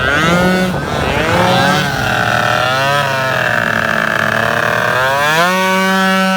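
Derbi Senda's tuned two-stroke engine (70cc Metrakit kit, BRK expansion pipe) revving hard under way: the pitch climbs, dips briefly about two and three seconds in, holds high, then drops and climbs again and levels off near the end.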